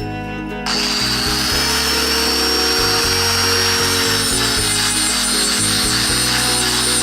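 A power tool with a buffing wheel starts up about a second in and runs steadily against the motorcycle muffler, a hissing rub with a high whine, over background music.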